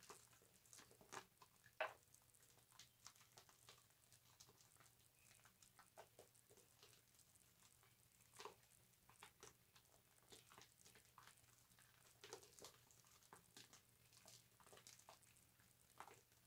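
Faint, irregular wet crackling and soft squishing of soap lather being worked with a loofah, with one louder click about two seconds in.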